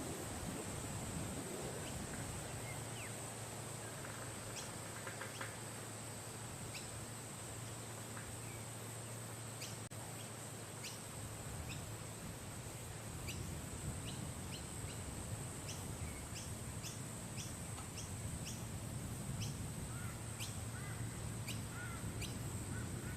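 Bar-winged prinia giving short, sharp, high chirps, about a dozen at irregular intervals, mostly in the second half, over a steady high-pitched hiss and low background rumble.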